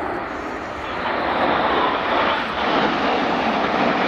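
Jet engine roar from the Red Arrows' formation of BAE Hawk T1 jets passing overhead, growing louder about a second in as the formation approaches.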